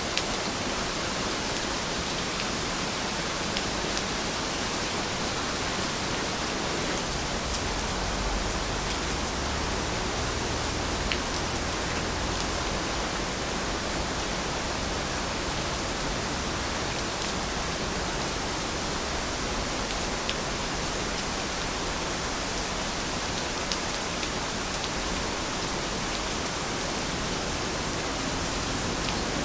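Steady rain, a constant even hiss with a few faint drop ticks scattered through it.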